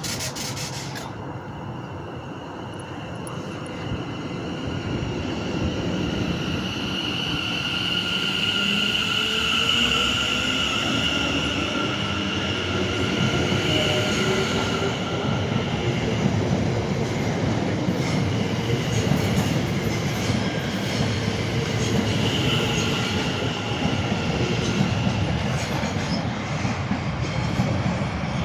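Two coupled Class 730 Aventra electric multiple units pulling out and accelerating, their traction motors' whine rising in pitch and growing louder over the first several seconds, with a high steady squeal running over it. Wheels click over the rail joints later on as the train passes.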